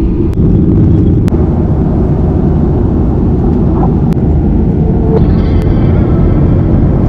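Steady loud rumble of a jet airliner heard from inside the passenger cabin.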